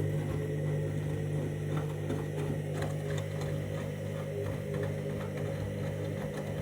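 Candy Grand'O Vita washing machine on the main wash of a synthetics cycle: the drum turning with a steady low motor hum and scattered soft clicks from the tumbling wash.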